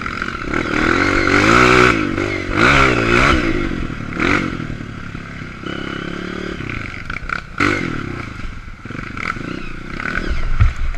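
Honda CRF230 dirt bike's single-cylinder four-stroke engine revving up and down several times, with sharp knocks and clatter about four seconds in and again past the middle.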